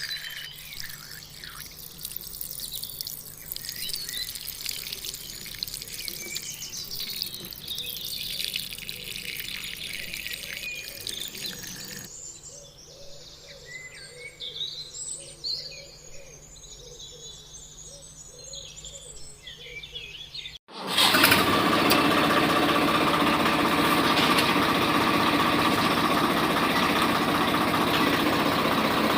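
Birds chirping for about twenty seconds. After a brief dropout a small electric motor switches on and runs steadily with a buzzing whine, much louder than the birds.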